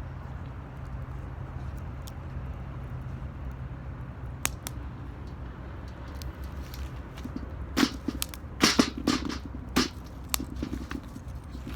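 Wood fire burning in a metal 18-litre can: a steady low rumble with scattered crackles and pops, and a cluster of louder knocks and snaps from about eight to ten seconds in.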